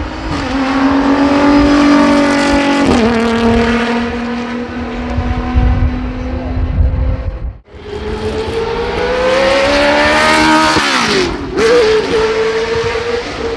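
Race car engine at high revs under hard acceleration, its pitch climbing and dropping sharply at each upshift. The sound cuts off abruptly about halfway through, and another run of climbing revs with a gear change follows.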